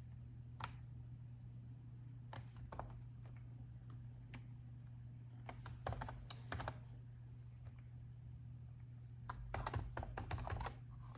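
Typing on a laptop keyboard in fits and starts: a few single keystrokes, then two short quick runs of keys, the second near the end. A steady low hum sits underneath.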